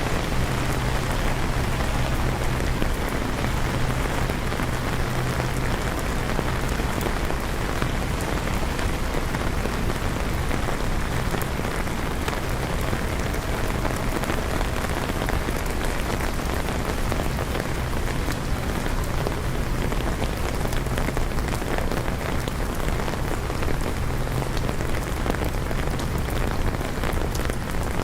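Steady rain falling, an even hiss with the patter of drops, over a low hum that fades in and out.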